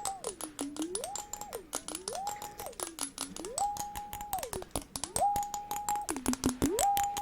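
ASMR water jar being handled: many quick tapping clicks over a clear tone that slides up to a higher note, holds it, and slides back down, about once a second.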